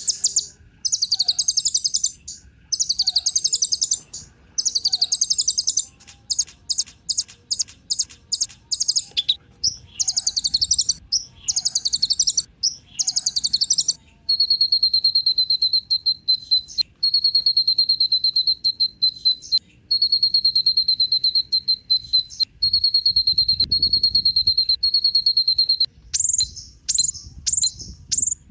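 Kolibri ninja sunbird singing: fast, high twittering phrases of about a second and a half each, with a run of quick sharp ticks between them. About halfway through this gives way to a steady, high buzzing trill like a cricket's, broken by brief gaps, with a few sharp chirps near the end.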